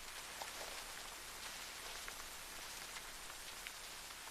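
Steady rain falling: a faint, even hiss with a few light drop ticks.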